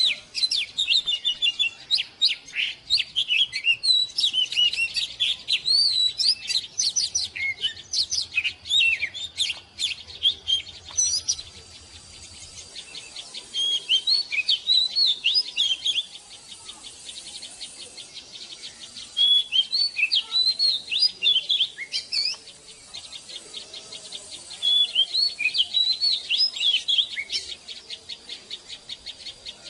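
Oriental magpie-robin singing: rich, varied whistled phrases with quick rising and falling notes. It sings continuously for about the first third, then in separate bursts of song with short pauses between them.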